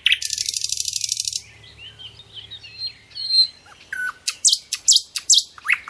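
Birds chirping. A fast, buzzy trill runs for about the first second and a half, then come warbling calls, and near the end a quick run of sharp, falling chirps.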